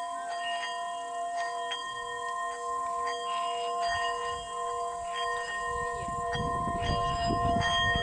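Several Tibetan singing bowls ringing at once, their steady tones overlapping while bowls are struck again and again, each strike adding a new ring. A low rumble joins in near the end.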